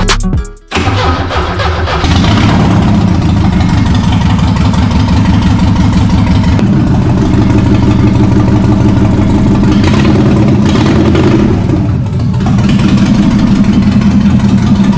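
Porsche 944's inline-four engine cranking on the starter, then catching about two seconds in and running, with revs rising and falling around idle. This is its first start after a long rebuild.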